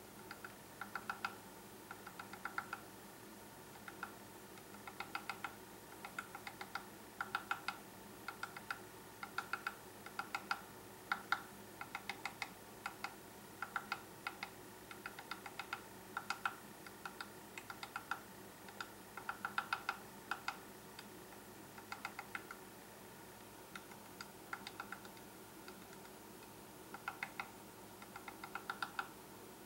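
Woodpecker pecking at a birdhouse entry hole to enlarge it: quick bursts of sharp taps, a few to several taps per burst, with short pauses between bursts.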